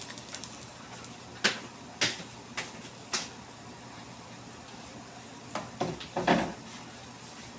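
Scattered clicks and knocks of kitchen containers and utensils being handled, with a louder cluster of clatter about six seconds in.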